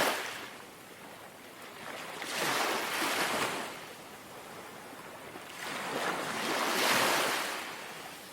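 Small, gentle sea waves lapping on a shore: one wash falling away at the start, then two slow swells of surf rising and fading, the last the loudest.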